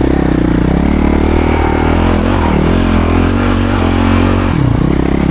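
Dirt bike engine running under load on a trail, its note steady, then briefly dropping and picking up again about four and a half seconds in.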